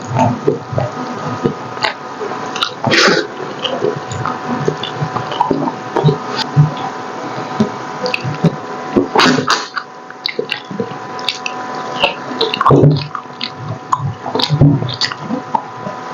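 Close-miked eating sounds: wet chewing, smacking and squishing of someone eating braised pork hock, with many irregular clicks and low thuds.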